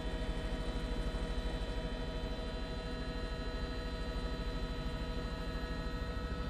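Helicopter cabin noise heard through an open microphone: a steady drone with several steady whining tones over a rapid, even pulsing from the rotor.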